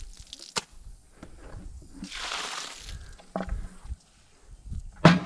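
Water splashing out of a car-wash bucket as it is rinsed and emptied, a rush lasting about a second, with a few knocks of the bucket handled around it.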